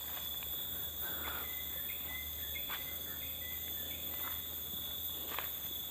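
Forest insects such as crickets droning steadily in several high, unbroken tones, with scattered short chirps and a few faint clicks over the top.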